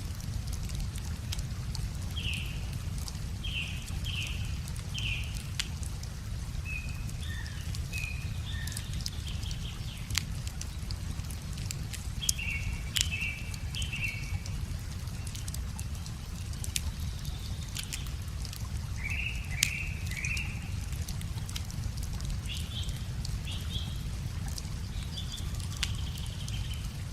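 Wood fire crackling, with scattered sharp pops, while songbirds sing short repeated chirping phrases over a steady low rumble.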